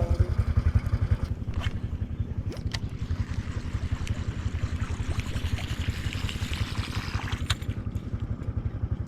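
Small boat engine running steadily with a rapid, even putter. A few sharp clicks sound over it.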